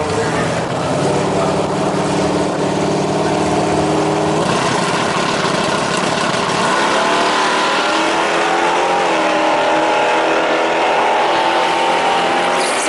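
Drag-racing engine held at steady revs for a few seconds, then pulling hard with its pitch climbing, as when a car leaves the line and accelerates down the strip.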